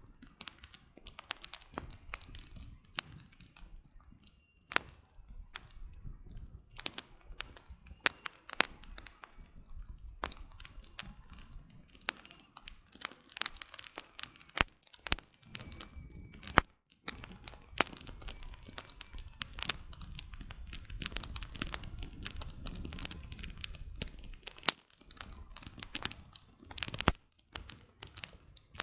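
Campfire of burning firewood crackling, with many irregular sharp pops and snaps over a soft low rumble.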